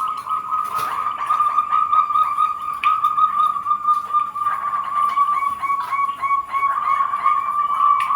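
Zebra doves (perkutut) cooing in a steady run of short, repeated notes.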